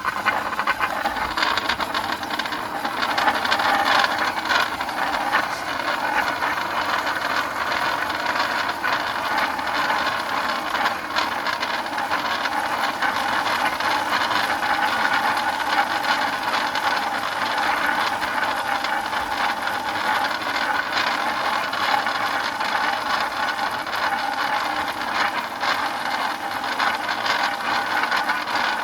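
Small electric motors and plastic gearboxes of DIY remote-control toy tractors running continuously, a steady whine under a constant clicking rattle of the gears.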